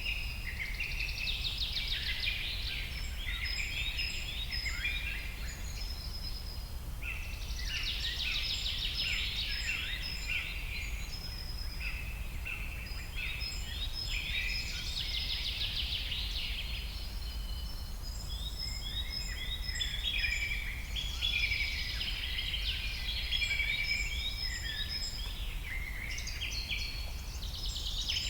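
Several birds chirping and trilling at once, with overlapping short high notes and rapid trills that swell and fade in waves, over a steady low rumble.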